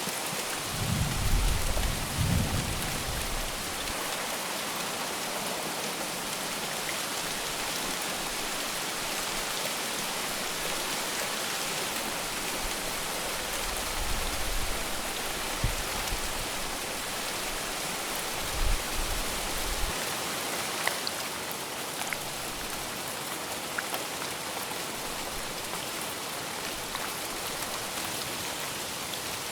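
Steady heavy rain falling, an even hiss of drops on a surface. A few brief low rumbles come about a second in, near the middle, and again a few seconds later.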